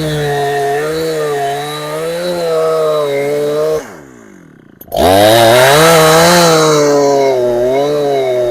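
A Chinese Husqvarna 372XP clone chainsaw's two-stroke engine running steadily. It cuts out just before halfway with its pitch falling away, then about a second later comes back loud with a rush of noise before settling to a steady run.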